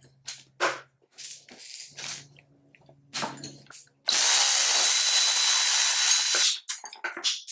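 Clatter and knocks of metal parts and tools being handled. About four seconds in, a power drill/driver runs steadily with a thin high whine for about two and a half seconds, then stops.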